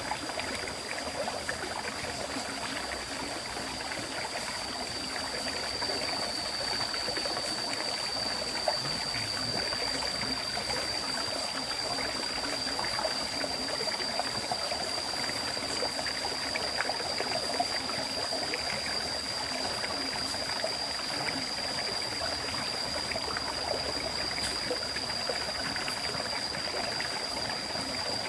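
River stream flowing, a steady even rush of water. A thin, steady high-pitched whine runs under it throughout.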